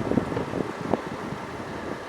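Wind buffeting the microphone aboard a boat under way, a steady rushing noise.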